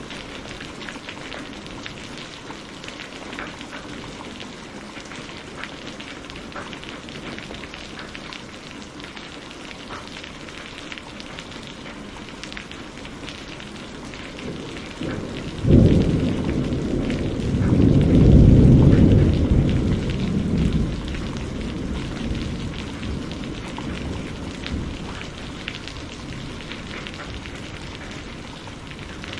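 Steady rain falling with scattered drops pattering, and about halfway through a sudden crack of thunder that rolls into a deep rumble, swelling once more before fading away.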